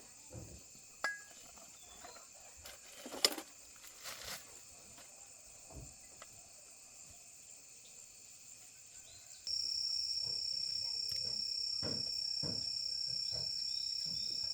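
Steady high insect shrilling, like crickets, with scattered light clicks and knocks. About two-thirds through, a louder, higher steady shrill starts suddenly and holds.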